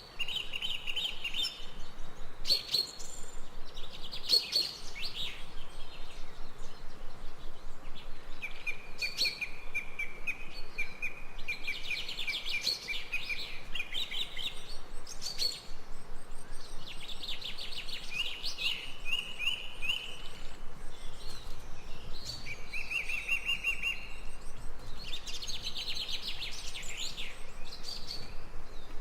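Birds chirping and calling over and over, with rapid trills held on one pitch alternating with busier bursts of chirps, over a faint steady hiss.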